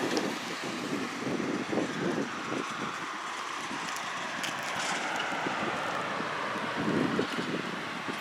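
A vehicle passing on the street: road noise swelling through the middle and easing near the end, with wind buffeting the microphone.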